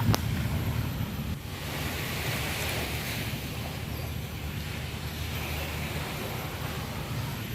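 Steady wind buffeting the microphone along with the wash of sea waves, with a sharp click right at the start.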